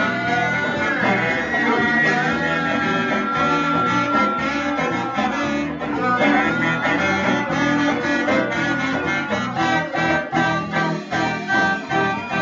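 Live band playing an instrumental passage, led by guitar over a steady beat.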